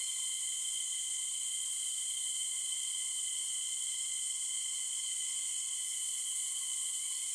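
Steady chorus of forest insects, a continuous high shrill hiss with several constant higher-pitched trills layered in, unchanging throughout.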